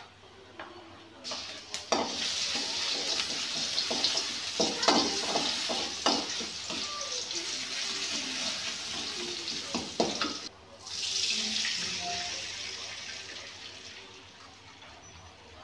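Small pieces of food sizzling in hot oil in an aluminium wok. The sizzle starts suddenly about two seconds in, and a metal ladle scrapes and clinks against the pan as it stirs. The sizzle fades near the end as water is poured into the wok.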